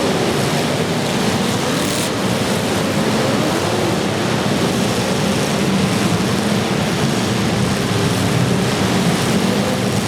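Several demolition derby car engines revving together, their pitches rising and falling over one another amid a loud, steady din.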